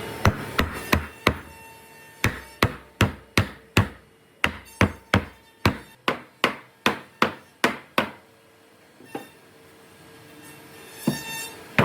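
Hammer blows on wood: a few quick strikes, then a steady run of about fifteen blows at roughly two and a half a second, then a pause and one last strike near the end.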